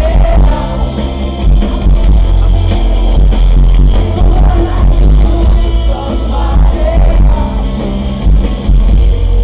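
Rock band playing live at high volume, with electric guitars, bass, drums and singing, recorded from the audience on a small camera, so it sounds bass-heavy and dull with no top end.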